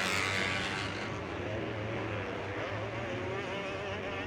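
Motocross bike engines running on the track: a steady drone whose pitch wavers as the riders work the throttle.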